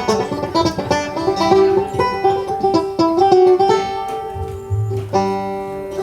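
Acoustic plucked-string instrumental music: a fast run of picked notes over a steady accompaniment, with a held low note near the end.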